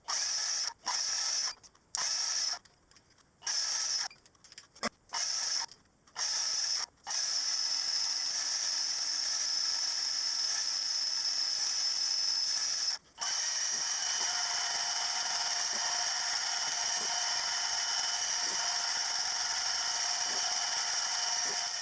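A small machine-shop tool motor running with a steady high whine. It starts and stops abruptly in short bursts for the first several seconds, then runs on, broken by one brief drop about 13 seconds in.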